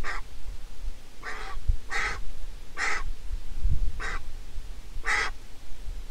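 Six short, harsh bird calls about a second apart, over a low rumble.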